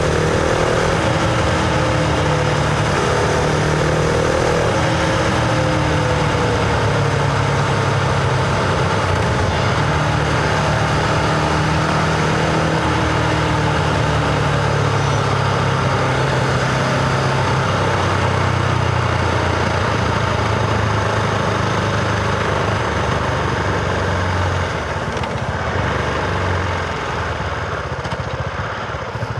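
Husqvarna Vitpilen 701's single-cylinder engine running at a steady cruising note over wind noise while the bike is ridden. In the second half the engine note drops lower and about 25 seconds in the overall level dips as the revs fall.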